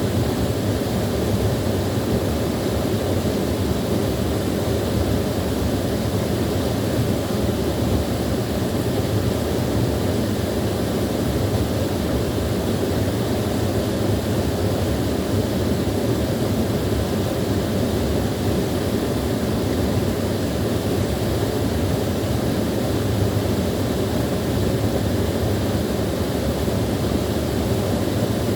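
Small waterfall: a steady, even rush of falling water, deepest and strongest in the low range, with no change throughout.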